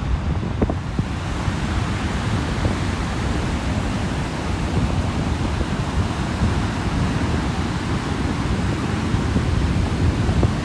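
Sea surf breaking and washing on a beach, a steady rushing noise, with wind buffeting the microphone.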